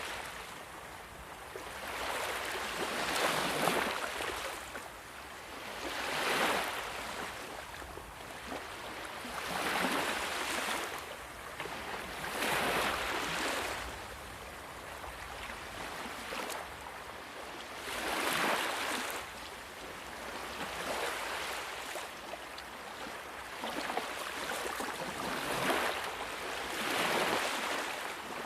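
Sea waves washing in one after another, each a rising and falling surge of hiss, about one every three seconds.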